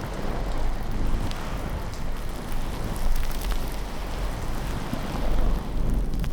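Rain falling steadily with a low thunder rumble that swells and fades, and a few faint ticks over it.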